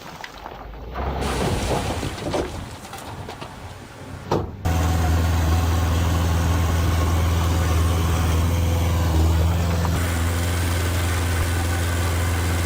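Uneven, quieter noise with no steady pitch; then, about four and a half seconds in, a sudden switch to a heavy diesel engine running steadily with a deep, even drone.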